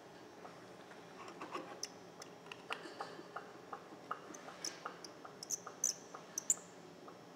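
A string of light, irregular clicks and taps, growing louder toward the end, as a compression gauge and small tools are handled on a bare engine block.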